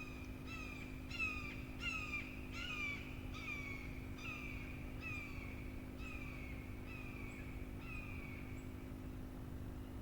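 A bird calls a long series of about a dozen descending calls, loudest in the first few seconds, slowing and fading before they stop near the end. A steady low hum runs beneath.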